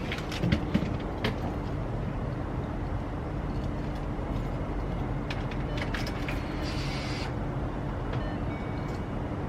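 Ford Mustang GT's 5.0 Coyote V8 idling steadily on a cold start with its exhaust cutouts open, a few short clicks in the first second or so.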